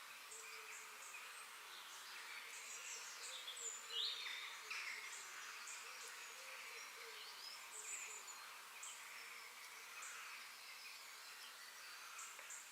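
Forest ambience: many birds chirping and calling over a steady, faint high hiss, with one louder call about four seconds in.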